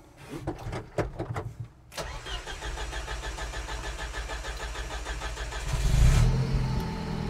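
A few light clicks, then the rear-mounted 1.9-litre Volvo 16-valve turbo four-cylinder being cranked by its starter for about four seconds. It catches with a loud rev about six seconds in and settles into a steady idle.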